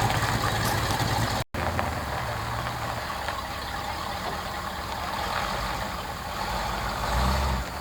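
Car engine running at low revs, with a louder low swell near the end. The sound drops out for an instant about one and a half seconds in.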